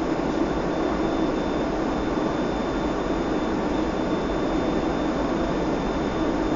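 Steady in-flight noise of a Boeing 757-224 airliner: an even rush of engine and airflow noise with a thin, steady high-pitched whine on top.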